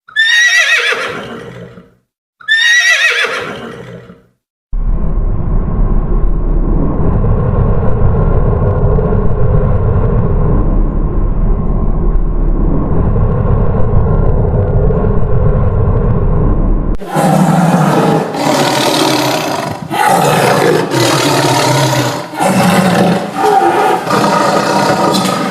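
Two horse whinnies, each falling steeply in pitch, in the first four seconds. Then comes a steady low noise with a hum for about twelve seconds. From about 17 seconds in, a run of loud rough animal calls repeats every second or so.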